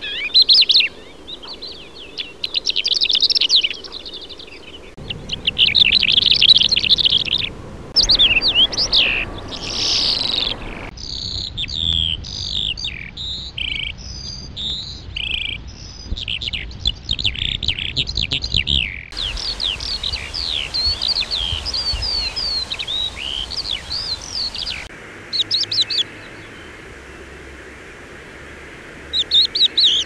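Songbirds chirping and singing in a string of separate recordings spliced one after another. The calls and the background noise change abruptly every few seconds, and a quieter stretch comes near the end.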